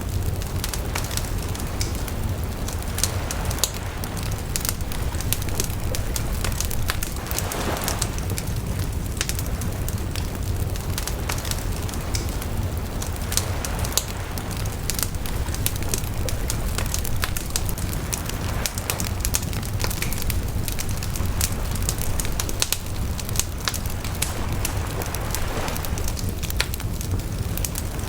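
Wood bonfire burning, with a steady low rumble and frequent sharp crackles and pops from the burning wood, and a brief hissing swell about eight seconds in and again near the end.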